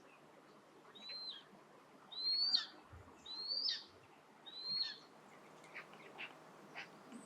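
Common buzzard calling four times, about a second apart: each call a thin whistled note that rises, holds and then drops away, with a few short fainter notes after them.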